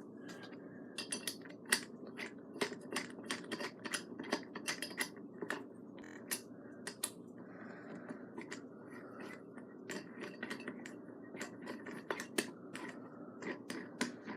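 Allen key working a stunt scooter's compression bolt, with irregular small metallic clicks and ticks several times a second as the bolt is tightened.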